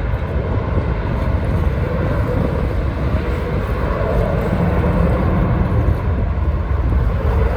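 Jet airliner taking off, a steady deep rumble of engines at takeoff thrust heard across open water.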